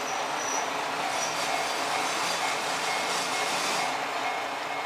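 Steady running noise of a KiHa 54 diesel railcar, with a faint high squeal about a second in.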